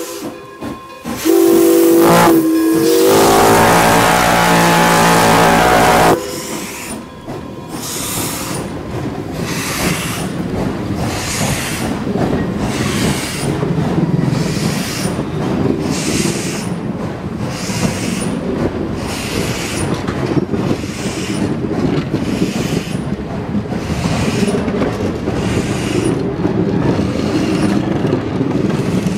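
Steam locomotive's whistle blows one long blast that ends about six seconds in. Then the exhaust chuffs about once a second, a little faster toward the end, as the locomotive starts pulling its train.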